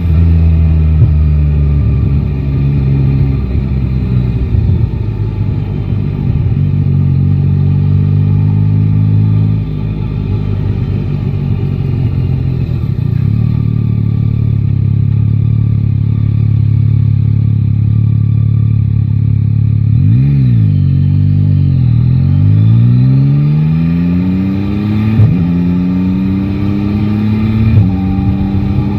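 A Yamaha Tracer 9 GT's three-cylinder engine running under a riding motorcycle, steady at first. About two-thirds of the way through, the engine note drops and rises quickly a couple of times, then climbs in steps as the bike accelerates up through the gears.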